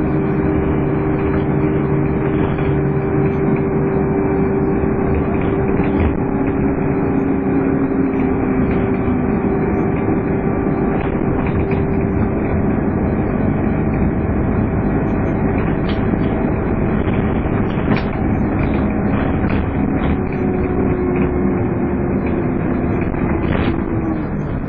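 Scania N230UD double-decker bus under way with its 'hoover' whine: steady humming tones from the engine and drivetrain over road noise. Near the end the pitch dips and recovers, as at a gear change.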